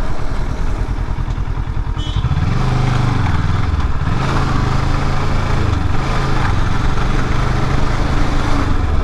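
Kawasaki Ninja 650's parallel-twin engine running while the bike is ridden, with wind rush. The engine pitch rises about two seconds in, then holds fairly steady.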